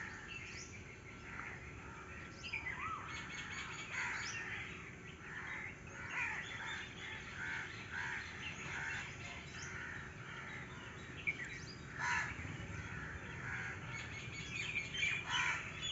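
Several birds chirping and calling over one another in a busy, continuous chorus of short, high notes.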